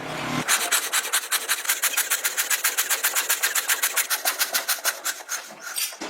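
Rapid, even rasping strokes, about eight a second, like a part being scraped or scrubbed by hand; they stop shortly before the end.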